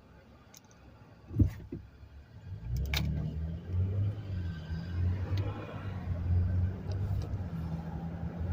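A single thump, then from about three seconds in a car engine running steadily with a low hum.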